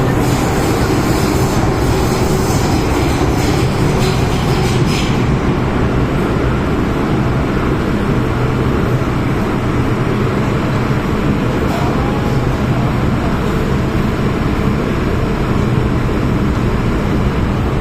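Running noise of an MTR M-Train electric multiple unit on the move: a steady rumble of wheels on rail with a low, even hum, and a few faint clicks in the first few seconds.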